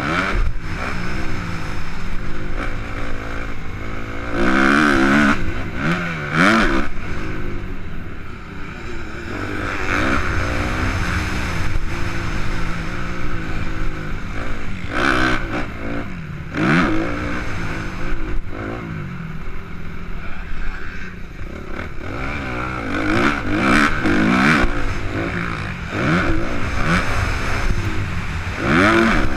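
Suzuki RM-Z 250 single-cylinder four-stroke motocross engine under hard riding, its pitch rising and falling again and again as the throttle is opened and shut, over a steady rush of wind and ground noise.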